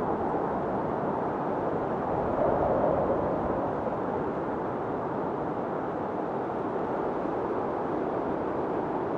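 Blizzard wind blowing steadily, a low rushing noise that swells in a gust about two to three seconds in and then eases.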